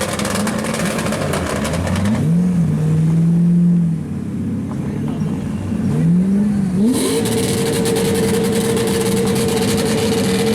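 Turbocharged drift car engine revving up twice and holding high revs. In the second half, rapid crackling pops come from the exhaust, typical of an anti-lag system.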